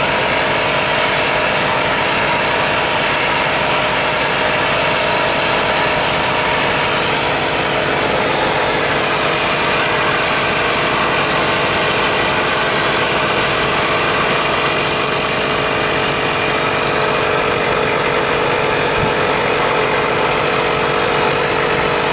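A machine running steadily: a constant drone with a hiss over it and no change in pitch or level.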